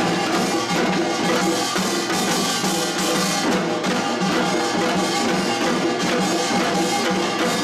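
Lively music played by a pungmul folk band: drums and percussion keep a steady, driving beat, with pitched melody lines over it.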